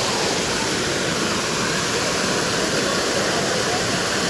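Steady, constant rush of a waterfall's falling water.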